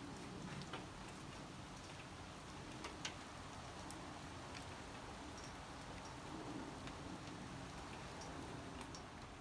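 Light rain falling, with scattered single drops ticking irregularly on a hard surface, one a little louder about three seconds in.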